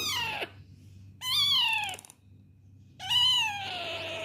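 Pet parrot calling three times in meow-like, downward-falling calls. The last call is longer and ends in a raspy stretch.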